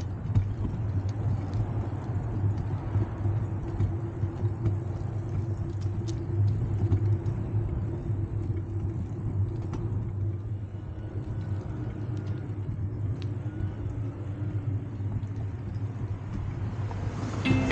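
Steady low rumble of street and traffic noise heard while riding a bicycle. Music comes in near the end.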